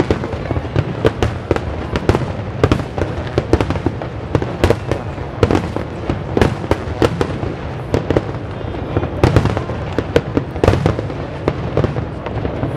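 Large fireworks display: an irregular string of sharp bangs and crackles, several a second, over a continuous low rumble.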